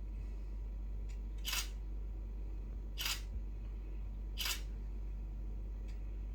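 Parrots pecking and cracking at a sunflower head: three short, crisp crunching noises about a second and a half apart, over a steady low hum.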